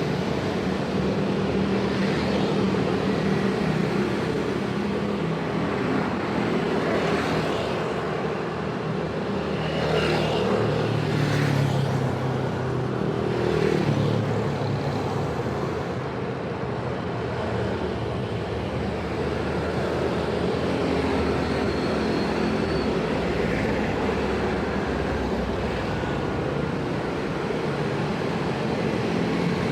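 Busy road traffic at a railway level crossing: a steady din of vehicle engines and exhausts, with vehicles passing more loudly in the middle.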